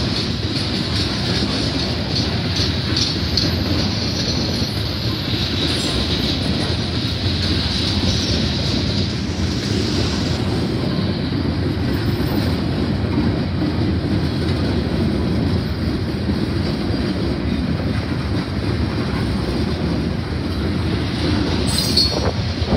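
Loaded freight train of coal hopper cars rolling steadily past at close range: a continuous low rumble and clatter of steel wheels on the rails, with a high squeal from the wheels over roughly the first half.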